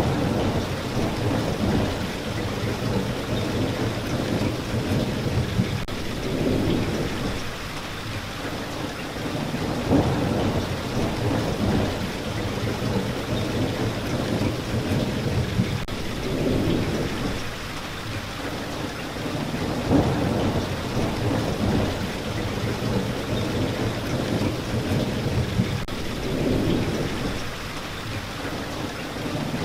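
Steady rain falling, an even hiss, with low rumbles that swell and fade about every ten seconds.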